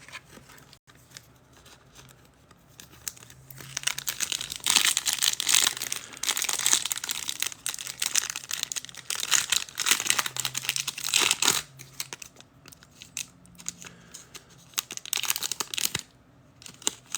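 Foil wrapper of a trading-card pack being torn open and crinkled. The crackling comes in dense stretches, the longest from about four to eleven seconds in and a shorter one near the end.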